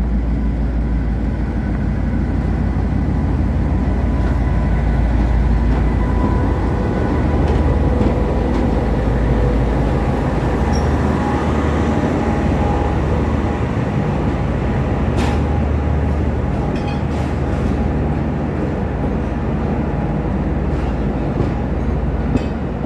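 Diesel-hauled passenger train running at a station: a steady, loud, low rumble of the locomotive and rolling coaches, with one sharp click about fifteen seconds in.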